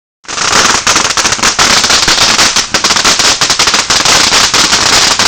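Firecrackers going off as a loud, rapid string of cracks and pops that starts about a quarter second in and keeps going without a break.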